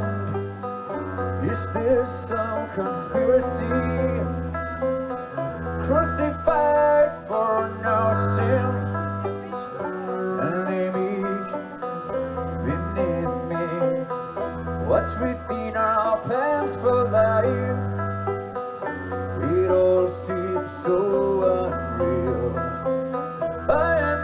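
Bluegrass-style string band playing, banjo picking over guitar and a bass line that changes note every second or two.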